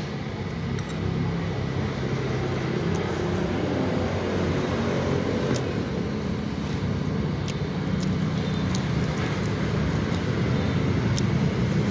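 Steady low engine rumble of background vehicle or aircraft noise, with a few faint sharp clicks.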